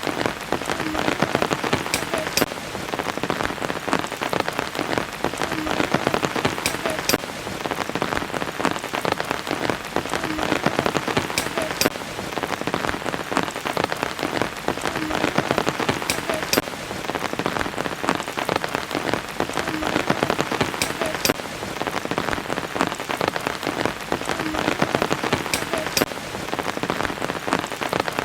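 Steady rain falling on a surface, a dense patter of drops. The same few seconds of rain repeat about every four and a half seconds.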